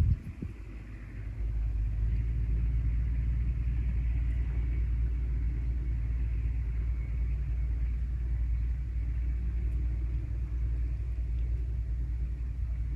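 Steady low outdoor rumble, quieter for about the first second and a half, then even.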